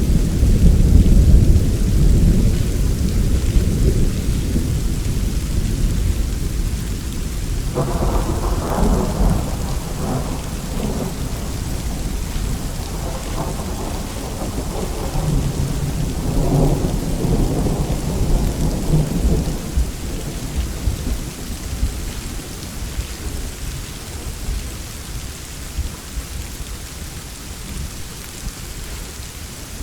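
Steady rainfall with thunder. A deep roll of thunder fades over the first few seconds; about eight seconds in a second peal starts suddenly and rumbles for about ten seconds before dying away, leaving the rain.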